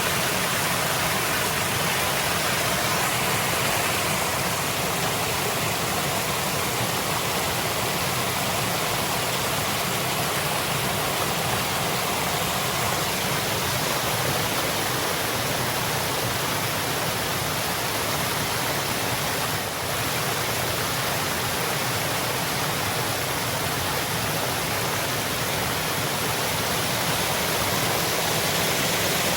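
Waterfall: falling water making a steady rushing, splashing noise.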